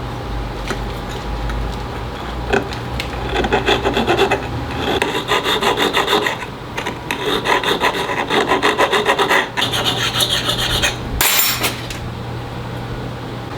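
Hand file rasping on a metal ring in quick, even strokes, about five a second, in two runs with a short pause between, as the cut ring is filed during repair. A brief loud burst of noise comes near the end, over a steady low hum.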